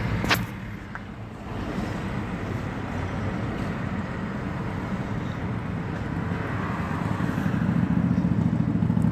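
A car driving: steady engine and road rumble that grows louder over the last few seconds, with one sharp click just after the start.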